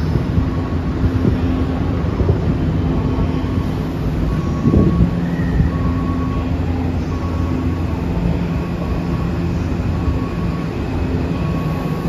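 Passenger train running: a steady rumble with a low hum and a faint higher tone that pulses about once a second. A brief knock sounds a little under five seconds in.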